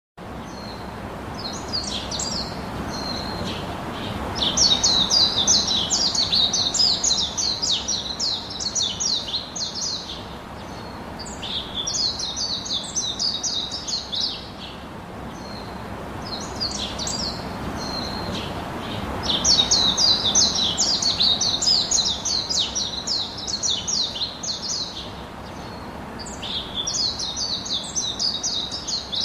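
Small birds chattering in rapid high-pitched bouts of several seconds each, with short pauses between, over a steady background hiss.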